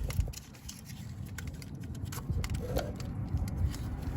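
Faint clicks and small handling noises from a wiring harness connector being fitted to the engine, over a low background rumble.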